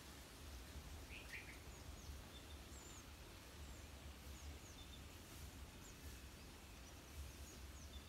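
Faint, short, high bird chirps at scattered intervals over a steady low background rumble.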